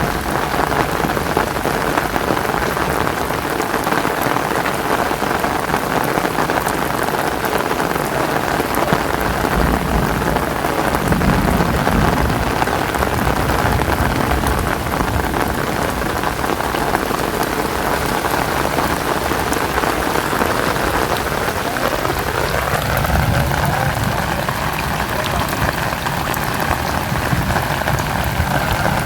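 Heavy rain falling steadily, a dense even hiss of drops on surfaces. About three quarters of the way through, a tone rises and then holds steady beneath the rain.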